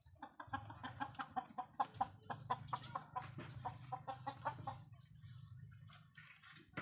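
A rapid run of short clucking calls, about five a second, stopping about five seconds in, over a low steady hum.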